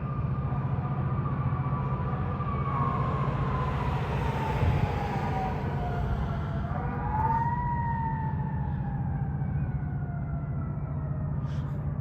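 Fire truck siren wailing with a slow downward sweep in pitch that rises once about halfway through and then falls slowly again, over the steady low rumble of the truck's engine.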